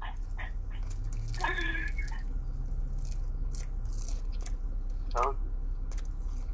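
A person biting into and chewing a pesto chicken burger, with soft wet mouth and sandwich noises and a couple of brief vocal sounds, over a steady low hum.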